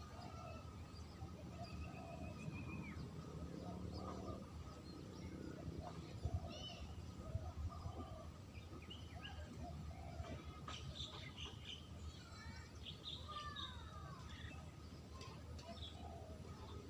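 Spotted dove (terkukur) cooing in short low phrases every second or so, with several other small birds chirping and whistling over a faint steady background hiss.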